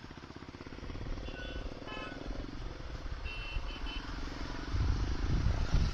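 Motorcycle engine idling with a fast, even low beat that grows louder near the end. Two brief groups of faint high beeps sound in between.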